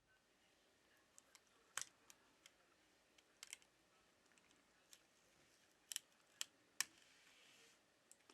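Faint, irregular light clicks and taps of small hand tools working on the inside of a tablet during disassembly, with a few sharper clicks in the second half.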